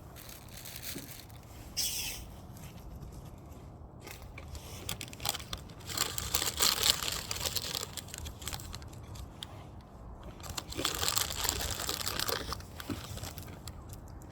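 Wood fire crackling and popping, the crackles coming thick and fast twice, around the middle and again later on, over a low rumble.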